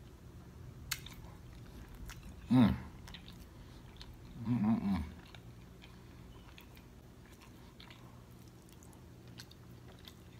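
Close-up chewing and wet mouth sounds of a person eating a sauce-covered boiled egg, with small smacking clicks. Two short hummed 'mm' sounds of the voice, about two and a half and four and a half seconds in, are the loudest part.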